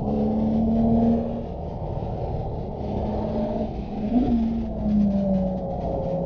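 Porsche Boxster S flat-six engine heard from inside the cabin, its note rising and falling with the throttle under steady road rumble, with a brief sharp rise and fall in pitch about four seconds in.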